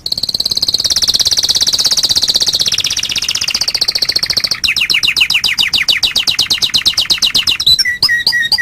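Domestic canary singing a long, loud song of rapid trills: a high rolling trill for the first half, then a faster run of sweeping notes, breaking near the end into separate repeated chips.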